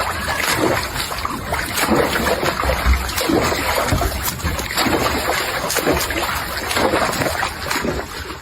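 Water splashing and sloshing steadily, with a low rumble underneath; it cuts off suddenly at the end.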